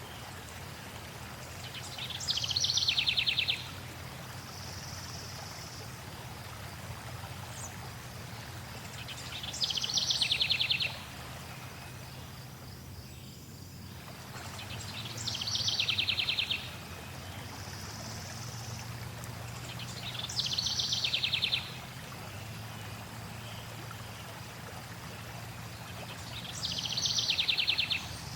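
Steady flowing water with a songbird singing a short trilled song five times, about every six seconds; each song runs a second or so and slides down in pitch as it speeds into a rapid trill. A fainter, higher, steady call from another bird comes twice between songs.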